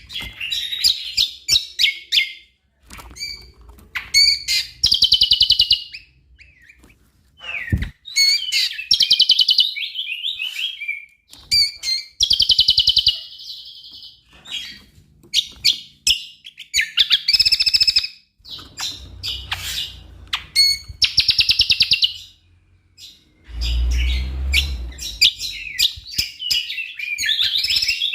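Cucak kombo (Javan grey-throated white-eye) singing a loud, varied stream of chirps and whistled phrases, broken every few seconds by fast, buzzing trills about a second long. A low rumble comes in underneath about two-thirds of the way through.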